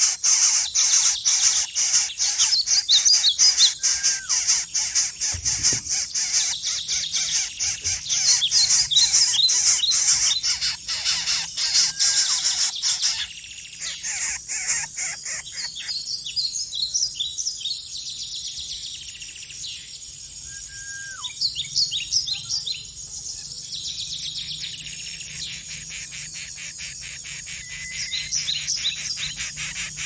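High-pitched bird chirps and short trills over a fast, even rasping pulse. About 13 seconds in, the sound changes abruptly and the rasping becomes fainter, while the chirps continue.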